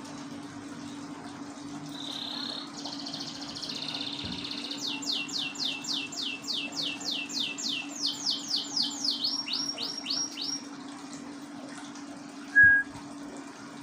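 Canary singing: a buzzy note, then a trill of rapid downward-sweeping high notes, about four a second, ending in a quicker run of shorter notes. A brief loud high note comes near the end, over a steady low hum.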